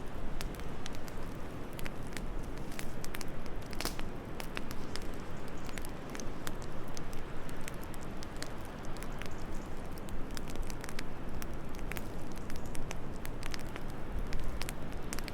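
Wood fire in a fireplace crackling, with irregular sharp pops and snaps over a steady low rush of wind.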